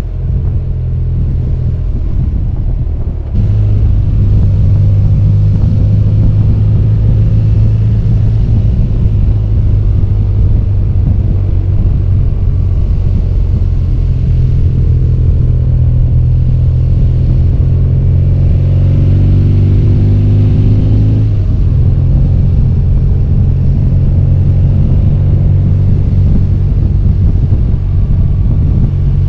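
BMW R1200GS flat-twin engine running steadily under way, a loud low rumble with its note shifting abruptly about 3 seconds in and again about 21 seconds in.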